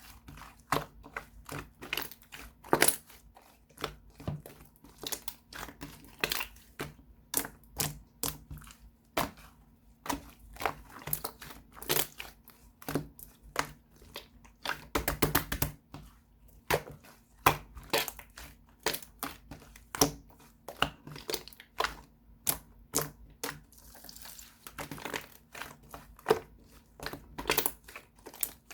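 Slime being pressed and squished by hand, giving a run of sharp, irregular clicks and pops, with a quick flurry of clicks about halfway through.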